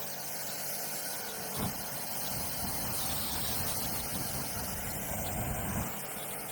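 Honda Win 110cc's small single-cylinder four-stroke engine running, with a heavier low rumble from about a second and a half in until near the end.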